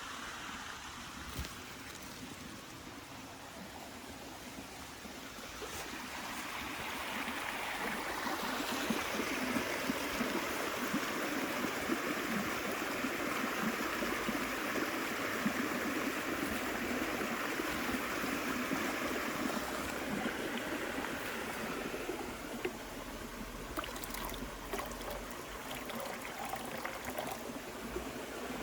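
Steady rush of running water, like a stream, growing louder about six seconds in, with a few faint ticks near the end.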